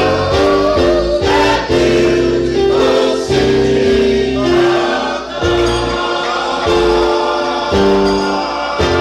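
Gospel-style choir music: a group of voices singing held notes over a bass line.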